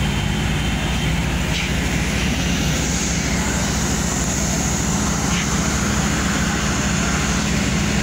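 Steady mechanical drone of a standing passenger train, a constant low hum with a fast, even throb underneath.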